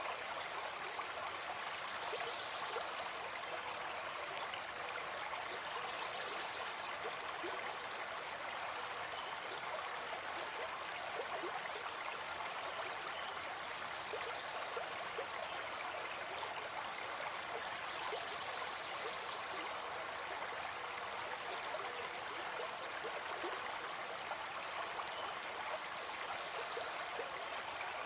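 Gentle forest stream flowing, a steady rush of water.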